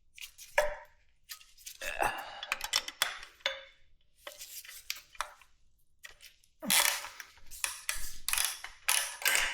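Metal hand tools and motorcycle parts clinking and clattering in a run of sharp clicks and short rattles, busiest over the last three seconds.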